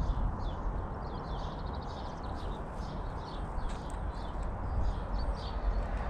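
Birds chirping and twittering in quick short notes over a steady low rumble.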